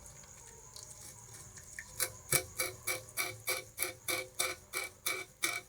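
Bamboo rat gnawing and chewing sugarcane in rapid, regular crunches, about four a second, starting about two seconds in after a quiet spell.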